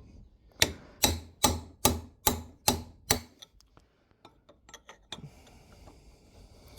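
Hammer striking steel, about seven sharp blows at roughly two to three a second, knocking out a worn kingpin bush a bit at a time. A few light metallic clicks and a short scratchy rasp follow near the end.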